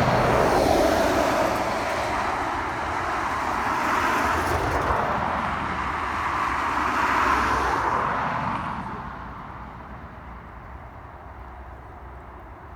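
Jet airliner passing close by: a loud roar that sweeps down in pitch in the first second, holds for several seconds, then fades away after about nine seconds.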